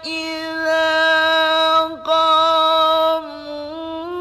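Male Qur'an reciter chanting in the melodic tajwid style, drawing out the words "wa idha" in long held notes with an ornamented voice. Near the end his voice drops softer and dips slightly in pitch before rising again.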